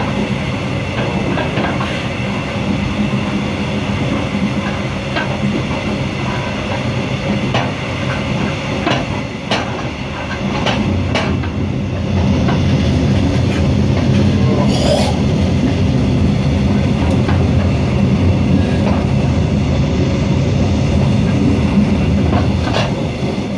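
Passenger train running, heard from inside the carriage: a steady rumble of wheels on rails with scattered clicks, getting louder about halfway through.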